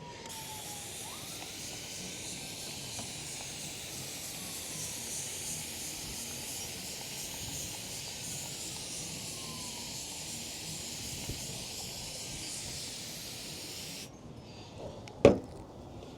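Water spraying steadily onto a headlight lens to rinse off the restoration cleaner, a continuous hiss that cuts off suddenly about fourteen seconds in. A single sharp knock follows about a second later.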